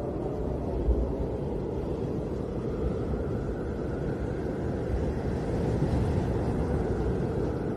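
Snowstorm wind blowing, a steady low rumbling noise that swells slightly a little past the middle.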